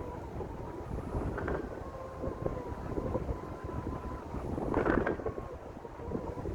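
Wind in a pine grove, buffeting the microphone with an uneven low rumble, with a stronger gust about five seconds in. A faint steady hum runs underneath.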